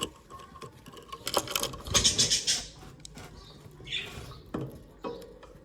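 Newborn budgerigar chicks rustling and scratching about, with light clicks and a louder rustle about two seconds in.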